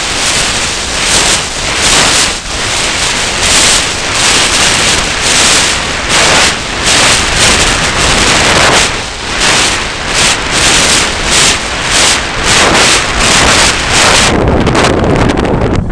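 Strong gusty wind buffeting the microphone: loud, rushing wind noise that surges and eases every second or so.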